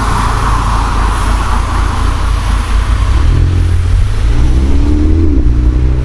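Exhaust of a Mini Cooper Countryman S F60 with an aftermarket muffler kit: the turbocharged four-cylinder engine running, its note growing stronger about three seconds in and rising in pitch as the revs climb.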